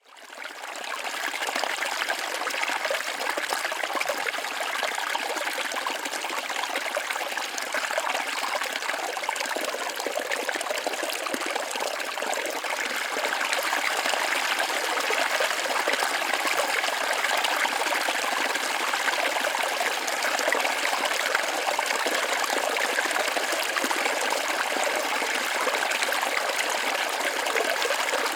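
Small forest waterfall or cascade splashing and trickling steadily over rocks, fading in during the first second.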